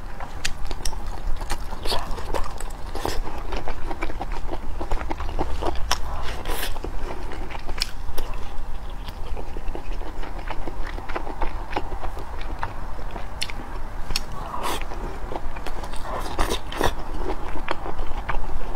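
Close-miked chewing and biting of rice and braised meat, with irregular wet mouth clicks and smacks, over a steady low hum.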